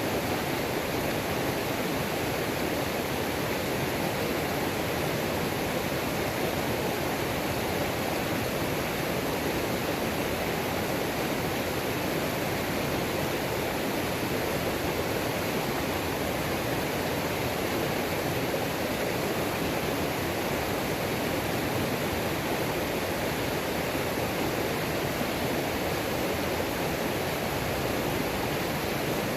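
Mountain creek waterfall: a steady rush of falling water.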